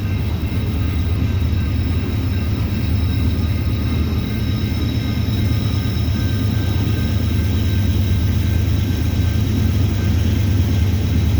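Loaded coal train passing on a steep upgrade: a steady, loud low rumble of hopper cars and working diesel locomotives. The rumble grows slightly louder near the end as the distributed-power (DPU) locomotives come up under full throttle.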